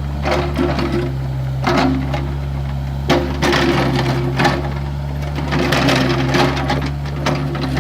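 Excavator engine running steadily under load, with repeated bursts of scraping and rattling from the digging work.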